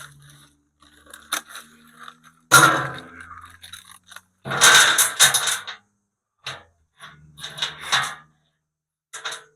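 Handling noise: scraping and crunching in several short bursts, the longest and loudest about halfway through.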